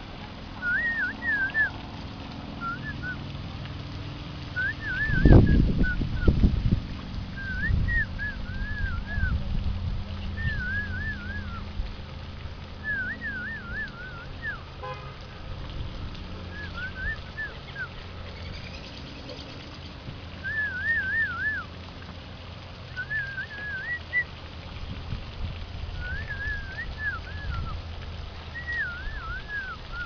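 A songbird singing short warbled phrases of rising and falling notes, repeated every second or two, over a low rumble. A loud bump comes about five seconds in.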